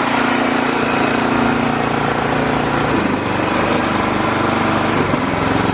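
Snowblower's small petrol engine running steadily. Its note drops about halfway through and picks up again near the end, as the load on it changes.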